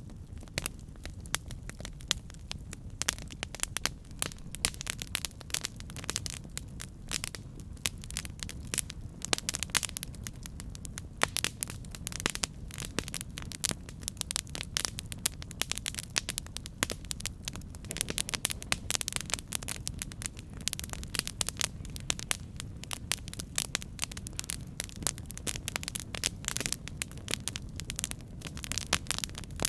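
Campfire burning: a steady low rumble of flame with dense, irregular crackles and pops from the wood.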